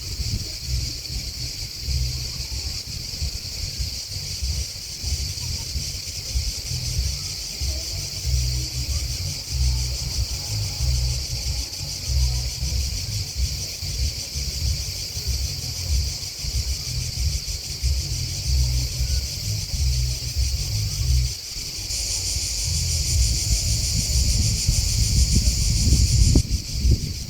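A chorus of grasshoppers and crickets chirring steadily and high-pitched, swelling louder for a few seconds near the end. Wind buffets the microphone underneath as a loud, uneven low rumble.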